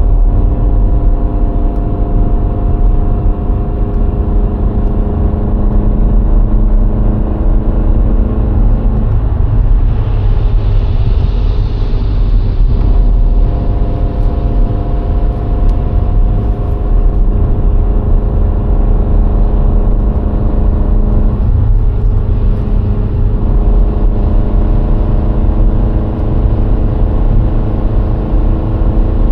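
VW Golf IV 1.6 four-cylinder petrol engine running steadily while driving, over a constant low road rumble. The engine note smears about a third of the way in, with a brief hiss, and breaks again about three quarters through before settling back to a steady tone.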